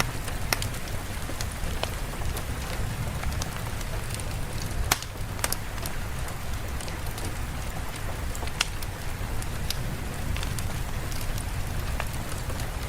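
Steady rain, an even hiss with scattered sharp drop ticks and a low rumble underneath.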